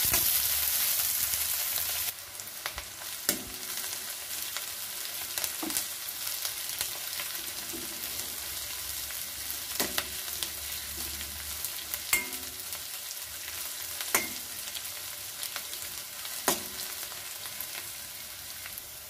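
Sliced shallots, curry leaves and dried red chillies sizzling in hot oil in a metal kadai as they are sautéed toward golden brown. A metal spoon scrapes and knocks against the pan about every two seconds as they are stirred. The sizzle is louder for the first two seconds, then drops to a steadier, quieter level.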